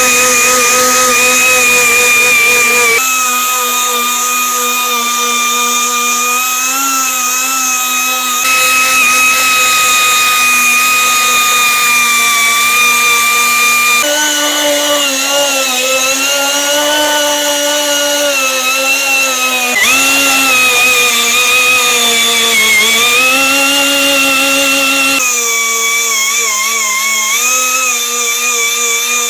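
An electric power tool running with a steady whine, its pitch dipping and recovering slightly as it takes load, heard over several clips that start and stop abruptly.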